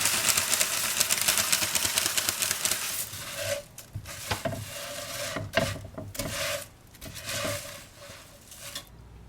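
Crisp rice cereal being stirred into melted marshmallow and browned butter in a pot: a dense crackly rustle for about three seconds, then separate scraping strokes against the pot that thin out toward the end.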